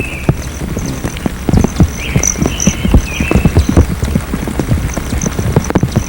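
Hummingbirds giving short chattering calls and high chip notes over a dense patter of irregular taps.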